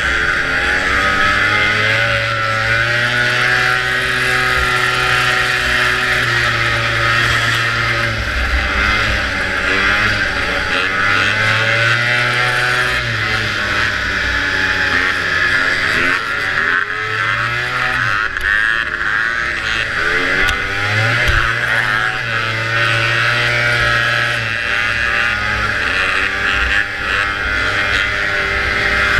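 Antique snowmobile's two-stroke engine running hard at racing speed, its pitch rising and falling again and again as the throttle is opened and eased, over a steady rushing noise.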